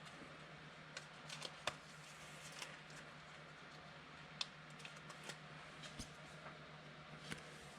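Trading cards being handled and slid through the hands, with faint scattered clicks and rustles of card stock over a steady low electrical hum.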